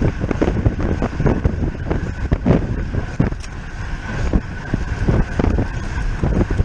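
Wind buffeting the camera microphone while riding a road bike at race speed: a heavy, gusty rumble with a faint steady high whine underneath.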